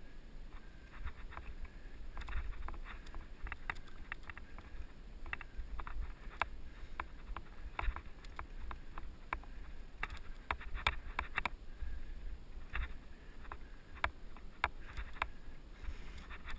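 Mountain bike rolling over a dirt trail: a low rumble from the tyres and trail, broken by frequent irregular clicks and rattles from the chain and frame over bumps, heard from a helmet-mounted camera.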